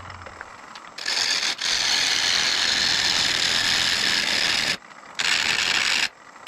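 A lathe gouge cutting into a spinning, bark-covered mesquite blank. Two rough, chattering passes follow each other, the first about four seconds long and the second shorter. The tool bites into the uneven bark with each turn of the wood.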